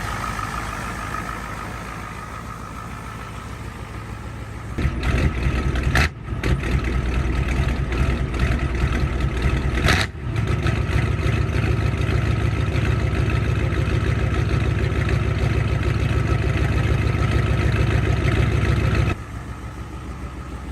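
1994 Ford 7.3 L IDI diesel V8 cold-starting after sitting all winter. About five seconds in it comes on loud, with two brief breaks, and runs steadily until the level drops sharply near the end.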